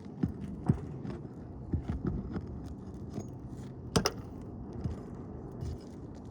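Hand work on asphalt roof shingles: irregular scraping and rustling with scattered sharp clicks, the sharpest about four seconds in, as a broken shingle is worked loose or replaced.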